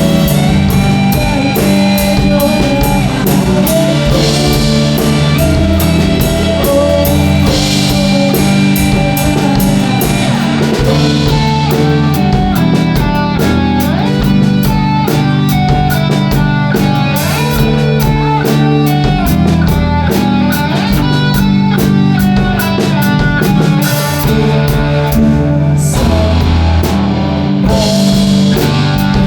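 Rock band music, mostly instrumental, with guitar and drum kit.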